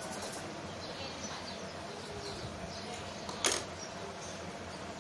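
Faint bird chirps over low background noise, with one sharp click about three and a half seconds in.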